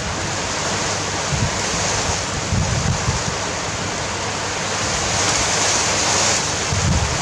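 Strong wind blowing in gusts, buffeting the microphone with low rumbles every second or two, the rush growing louder about five seconds in.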